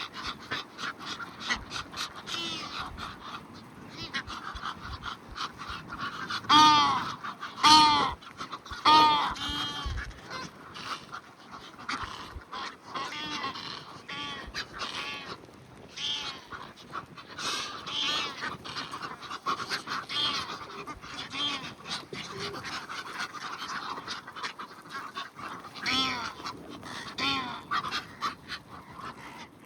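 A flock of Egyptian geese calling on a lakeshore: a steady run of short, harsh calls, with loud honks in a cluster of three about seven to nine seconds in and again near the end.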